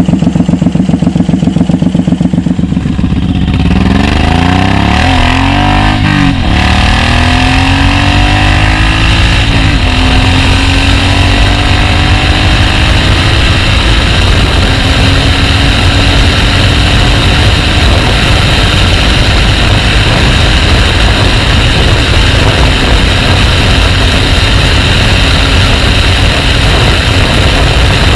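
Motorcycle engine idling with a pulsing low beat, then revved up and down several times, then running steadily under way.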